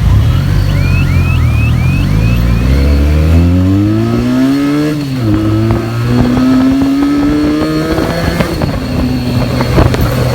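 Benelli TNT 300's parallel-twin engine through its stock exhaust, accelerating: the pitch climbs through a gear, falls at an upshift about five seconds in, climbs again and falls at another shift around eight seconds.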